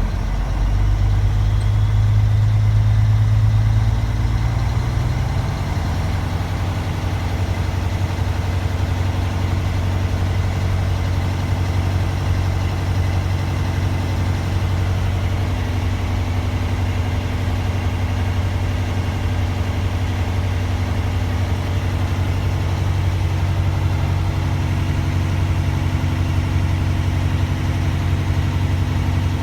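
Truck's diesel engine held at a raised speed of about 1500 RPM, driving the air compressor to build brake air pressure toward the governor cut-out. The engine is a little louder for the first few seconds, then runs steady.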